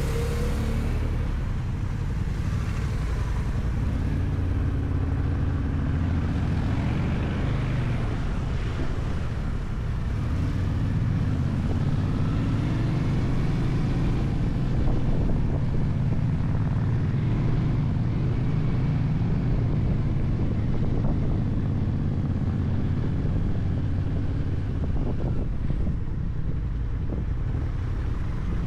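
Motorcycle engine running under way, with wind rushing over the microphone; the engine note drifts up and down a little.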